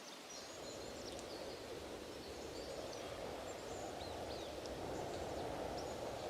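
Wind rushing steadily, growing slightly louder, with birds chirping several times high and thin over it.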